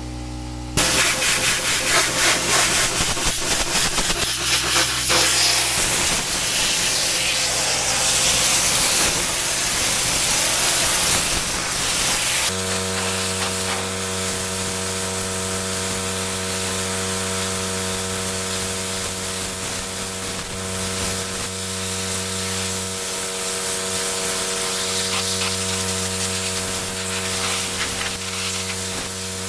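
Pressure washer jet spraying paving: a loud, steady hiss of water that starts about a second in. About halfway through, the spray turns less sharp and a steady low hum runs beneath it.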